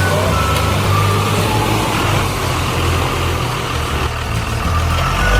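Toy vehicle's electronic sound effect: a steady engine-like rumble with short high beeps that step up and down in pitch.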